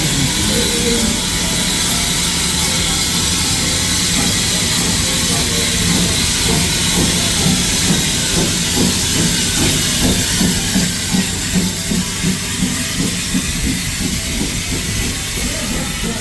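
Steam locomotive hissing steadily with escaping steam. About six seconds in, a slow regular low pulsing of roughly one and a half beats a second joins it, and the hiss eases toward the end.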